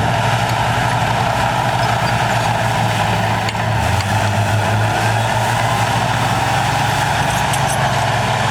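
Heavy diesel earthmoving machinery running steadily under work, with a continuous low engine drone.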